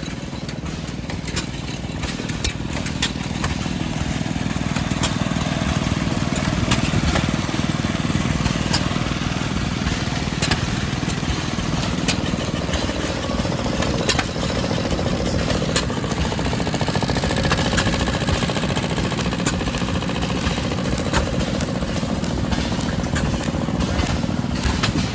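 Antique stationary gasoline engines running at an engine display: a steady low rumble with sharp, irregularly spaced pops and clicks over it.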